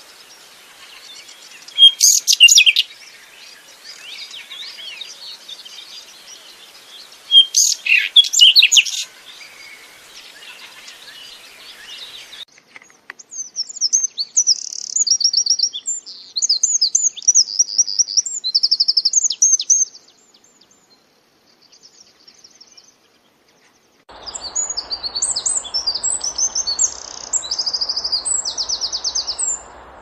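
Wild birds chirping and twittering in quick high-pitched series, with two loud bursts of calls in the first ten seconds. Near the end the chirping continues over a steady hiss.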